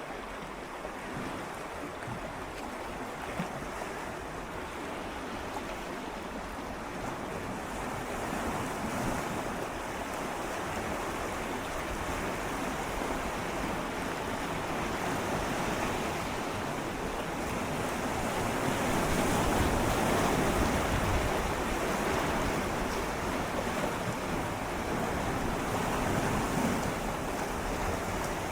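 Gentle sea waves swirling and lapping against shoreline rocks, a steady wash that swells slowly, fullest a little past halfway.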